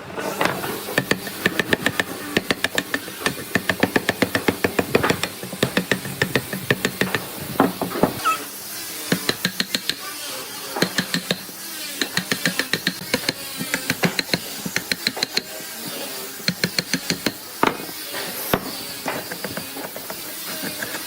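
Rapid repeated knocking of a hand tool striking wood, several strikes a second in runs with short breaks.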